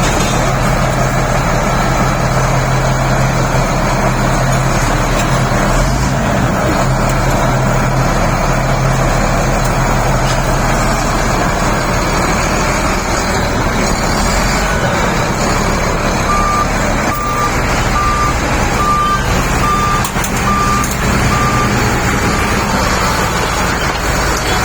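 Shantui SD32 bulldozer's diesel engine running steadily. About two-thirds of the way through, its reverse alarm sounds a run of about eight short beeps, a little under a second apart, as the machine backs up.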